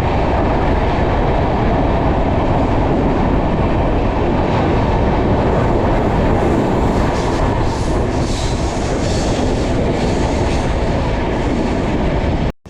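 Passenger train running at speed, heard from on board: a steady rumble of wheels on the rails with some clicking, cutting off abruptly just before the end.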